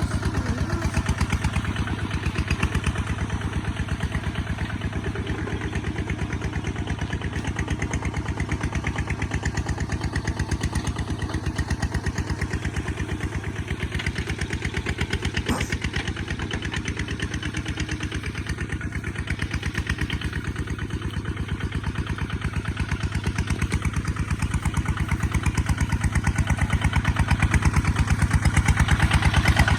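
Kubota ZT155 single-cylinder diesel engine running steadily with rapid, even firing pulses, getting somewhat louder near the end. There is one short sharp click about halfway through.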